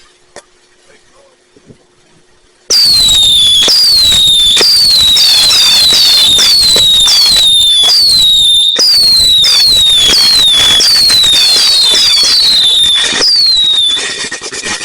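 Fireworks: a loud barrage of whistling fireworks breaks out about three seconds in, with many high whistles falling in pitch, a couple a second, over continuous crackling and banging. It eases off near the end.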